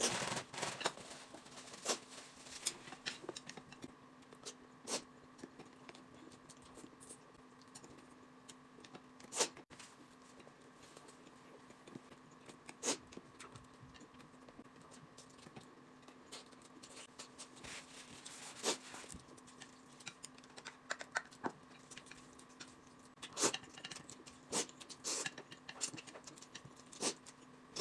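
Quiet eating sounds: chopsticks clicking against a plate, chewing, and noodles being slurped, heard as scattered sharp little clicks and crackles that grow busier near the end, over a faint steady hum.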